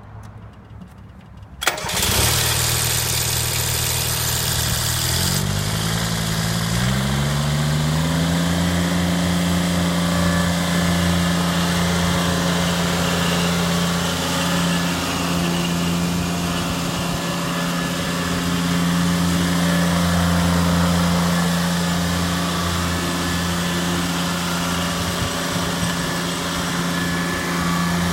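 Kubota D600 liquid-cooled three-cylinder diesel in a Kubota G5200 garden tractor being started. A click comes about two seconds in, then the starter cranks for about three seconds. The engine catches and its speed climbs, then it runs steadily.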